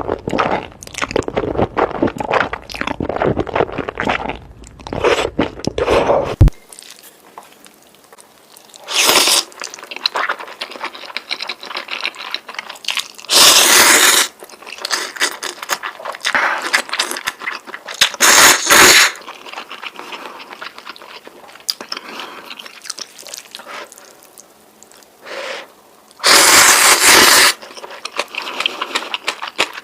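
Close-miked eating of noodles: rapid wet chewing and mouth smacks, then after a sudden change, loud noisy slurps of about a second each, four times, with quieter chewing between.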